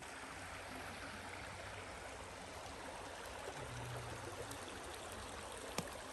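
A steady rushing hiss, with a single sharp click near the end.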